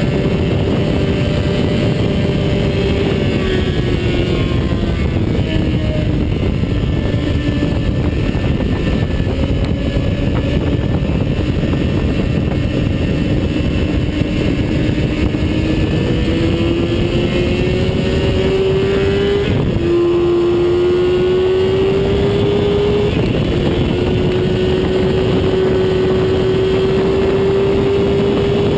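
Engine at speed on a racetrack, heard onboard over heavy wind noise. Its pitch drops early, holds low for a while, then climbs steadily, dips sharply about two-thirds of the way through at an upshift, and climbs again.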